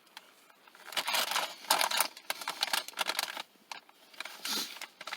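Cookie package being handled, rustling and crackling with many small clicks. There is a longer spell from about a second in to past three seconds, and a shorter one near the end.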